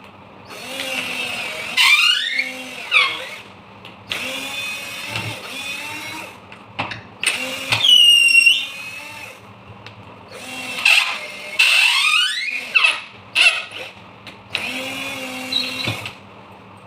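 Repaired cordless drill run on the trigger in several short bursts, its motor whine rising in pitch as it speeds up and stopping between runs.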